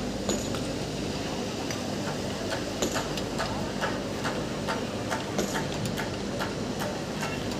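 Irregular light metallic clicks and taps from hand tools working on an excavator's diesel engine during fuel-injector removal, about two or three a second, over a steady low machine hum.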